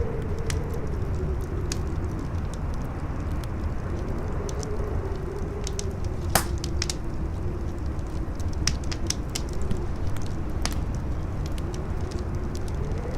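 Campfire crackling with scattered sharp pops, one loud snap about six seconds in, over strong wind howling with a low rumble and a wavering whistle that rises again near the end.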